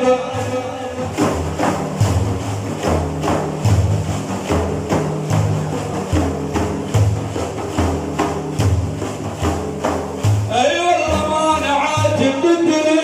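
Frame drums beaten in a steady rhythm with a low booming pulse, as an interlude between verses of religious chanting. Men's singing voices come back in about ten seconds in.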